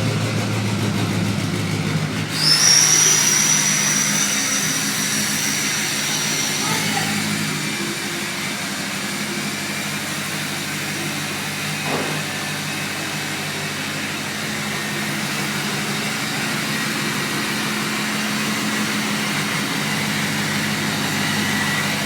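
A 2005 Ford F-350's 6.0 Powerstroke V8 turbo-diesel idles steadily with its exhaust removed, so the turbo is heard uncovered. About two seconds in, a high-pitched turbo whistle rises in slightly, then fades out a few seconds later while the idle runs on. There is a single short click about halfway through.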